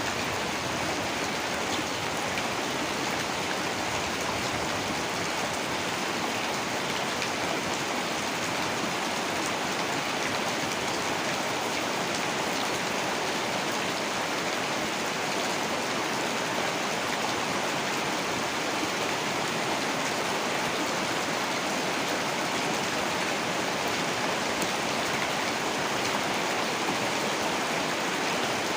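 Heavy rain falling steadily, an even wash of rain noise.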